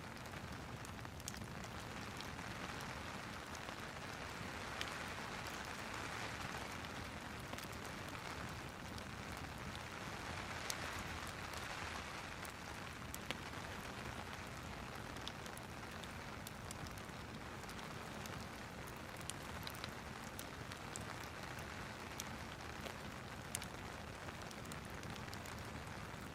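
Steady rain with a gently swelling hiss, dotted with scattered small crackles from a wood fire in a fireplace.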